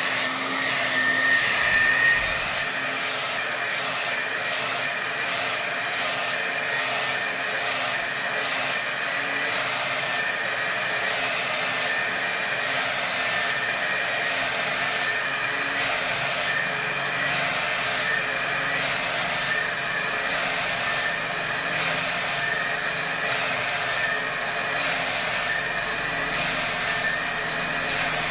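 Hair dryer blowing steadily at full power: a continuous rush of air with a faint high motor whine.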